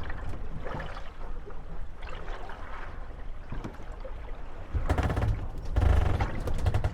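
Moored wooden gondolas rocking on choppy water, their hulls knocking and creaking against one another over a steady wash of water. Rattling runs of knocks come about five and six seconds in.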